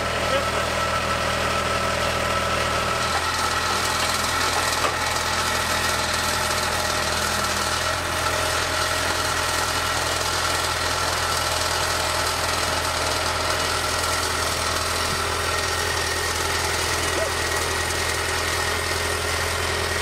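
Skid steer loader's engine running steadily under load while it pushes a car, its low tone shifting slightly about three seconds in.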